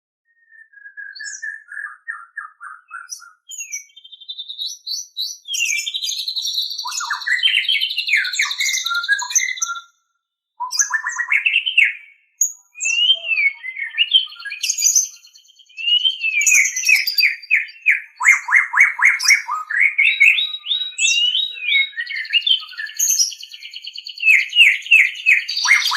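White-rumped shama (murai batu) singing: a long, varied song of clear whistles, sweeping glides and rapid runs of repeated notes, broken by a couple of brief pauses.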